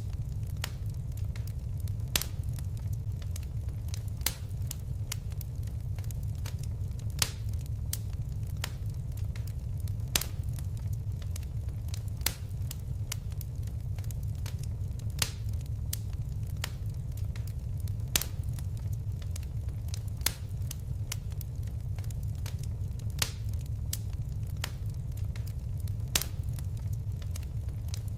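Wood fire burning in a fireplace: a steady low rumble of flames with sharp crackles and pops every second or two.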